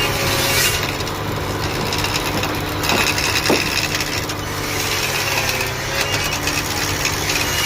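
A tool scraping and cutting wood in a continuous rasping, sawing-like sound, over a steady low hum.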